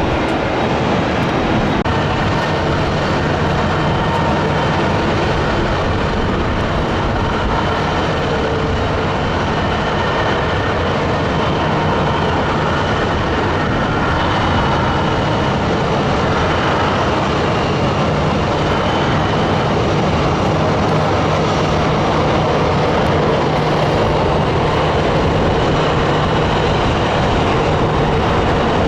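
Jet engines of a Boeing 737-800 airliner (CFM56-7B turbofans) running steadily as it lands, a continuous loud noise that grows a little louder about halfway through.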